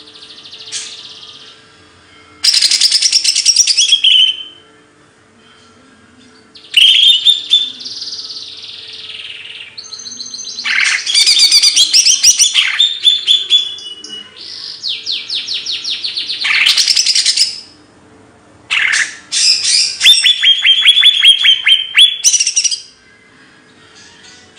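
A songbird singing loud, high-pitched phrases of rapid trills and chirps, five phrases in all with short pauses between them, over a faint steady hum.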